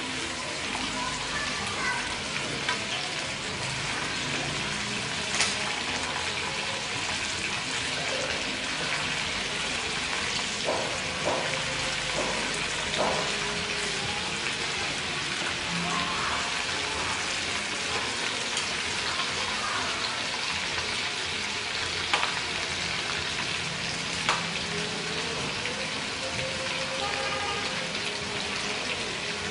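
Duck pieces frying in hot oil in a metal pan: a steady crackling sizzle, with a few sharp clicks as the metal tongs knock against the pan.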